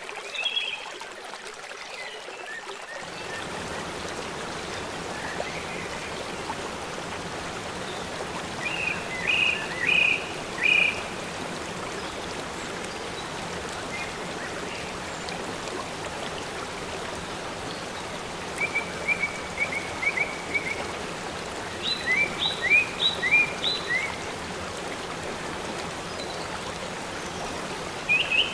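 Waterfall rushing with a steady, even hiss that grows fuller about three seconds in. A small bird chirps in short quick bursts over it, about nine seconds in and again twice near the end.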